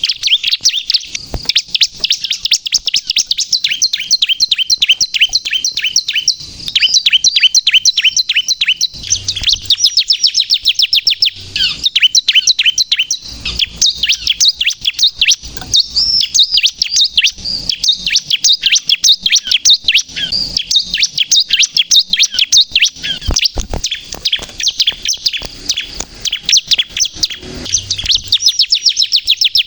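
Bar-winged prinia (ciblek) singing vigorously: a continuous rapid run of high, sharp chirping notes, roughly eight to ten a second, broken only by brief pauses.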